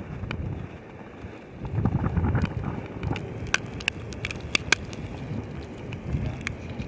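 Gusts of storm wind buffeting the microphone, a low rumble that swells strongest about two seconds in, with a scatter of sharp ticks between about three and five seconds in.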